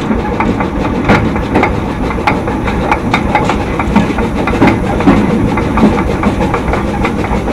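2 ft narrow-gauge steam train on the move: a steady rumble with irregular clicks and knocks of the wheels running over the rails.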